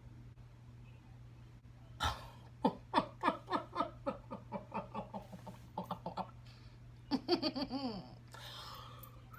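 A woman laughing: a run of quick "ha" bursts, about three a second for some four seconds, then a longer laugh falling in pitch and a breathy exhale near the end, over a steady low hum.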